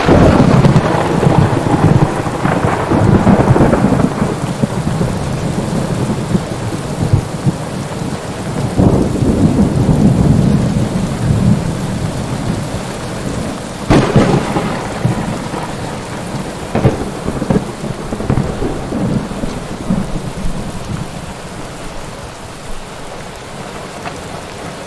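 Steady heavy rain with rolling thunder. A rumble fades over the first few seconds, another swells up around nine to eleven seconds, and a sharp thunderclap comes at about fourteen seconds, followed by rumbling and a few smaller cracks.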